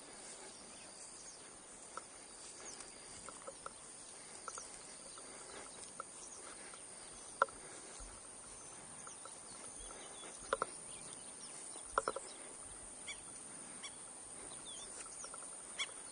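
Birds calling: scattered short, sharp calls a few seconds apart, the loudest around the middle, with fainter high chirps over a faint steady outdoor background.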